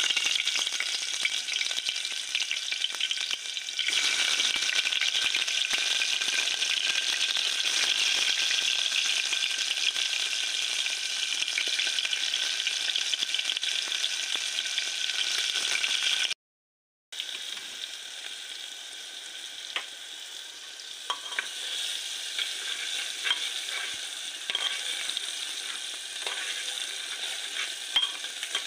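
Chopped onion, tomato and green chilli frying in hot oil in a metal pot, a dense sizzle that starts suddenly as they hit the oil. After a brief break the sizzle is quieter, with a ladle knocking against the pot as it stirs.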